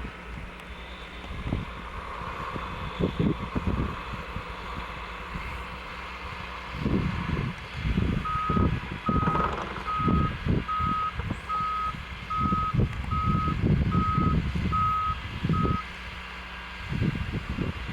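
A truck's reversing alarm beeping about ten times, roughly one beep every three-quarters of a second, starting a little under halfway through, over the truck's engine running. Gusts of wind buffet the microphone.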